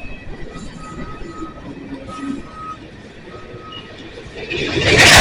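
Freight train standing in the yard with a low rumble and faint, broken squealing tones. Near the end, a loud noise swells up as the locomotives tug the train and stretch out its slack.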